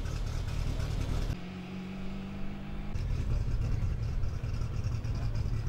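Rally car engine idling with a steady low rumble; about a second and a half in it switches to a smoother, even engine note for a second and a half, then the rumble returns.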